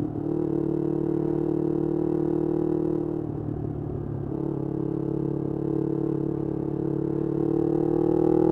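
Yamaha R25's parallel-twin engine through a Kea Speed aftermarket exhaust, holding steady revs on the move. The note dips and roughens briefly about three seconds in, then rises in pitch and gets louder near the end as it accelerates.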